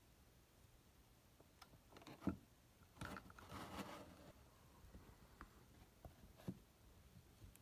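Near silence: room tone, broken by a few faint clicks, the sharpest about two seconds in, and a brief scratchy rustle about three to four seconds in.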